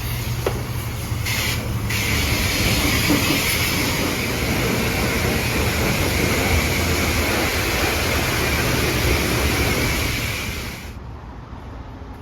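A truck running, with a steady low hum under a loud hiss; the hiss stops abruptly about eleven seconds in, leaving a quieter rumble.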